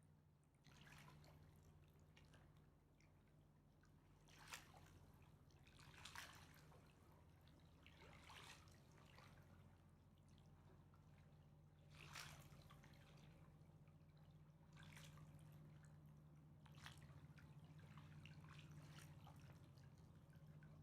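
Faint water lapping and dripping at the Mississippi River's edge: irregular small splashes every second or two over a low steady hum.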